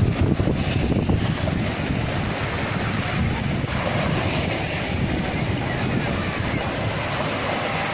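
Sea waves surging and washing continuously, with wind buffeting the microphone as a low rumble.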